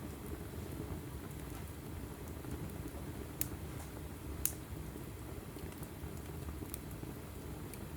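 Log fire burning in a fireplace: a steady low rumble of the flames with scattered small crackles, and two louder pops about a second apart near the middle.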